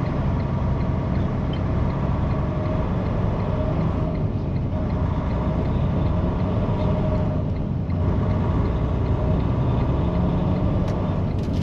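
Truck driving on the road: steady engine and road noise with no letup.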